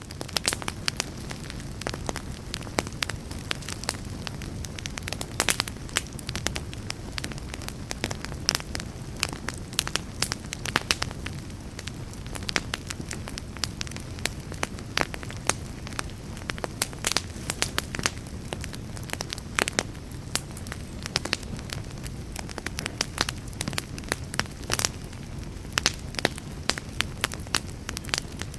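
Wood campfire burning, with many irregular sharp crackles and pops of burning wood over a steady low rush.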